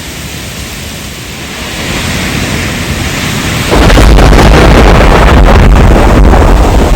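Rainstorm: a steady rain hiss that slowly swells, then a little past halfway cuts abruptly to a much louder, heavier downpour with a deep rumble underneath.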